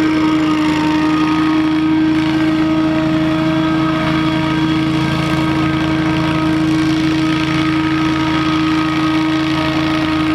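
Scag Windstorm debris blower running steadily, a loud constant drone with one strong unchanging tone over a low engine hum.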